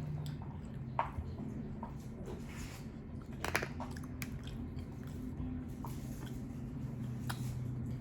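Close-miked chewing of sushi: soft, wet mouth sounds with scattered small clicks, over a low steady hum.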